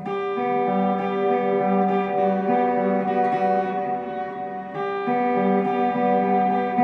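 Guitar played through a Mooer GE100 Pro multi-effects preset: chords picked in an even pattern over a held high note, changing about twice a second and re-struck about five seconds in.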